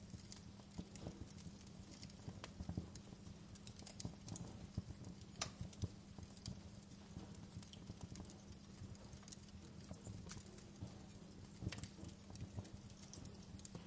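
Wood fire crackling, with irregular pops and snaps over a low steady rumble.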